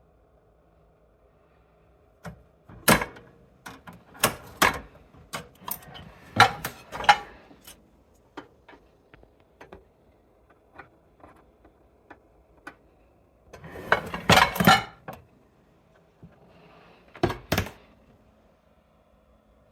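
Dishes and utensils being handled, clinking and knocking irregularly, with a dense clatter about two-thirds through and two sharp knocks near the end.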